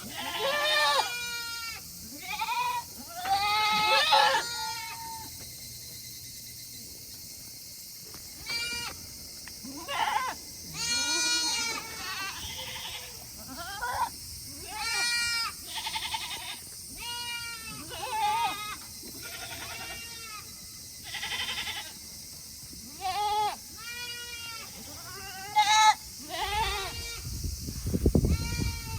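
Several goats bleating over and over, one call after another: a couple of dozen separate wavering bleats, each under a second long. Near the end there is a low rumble.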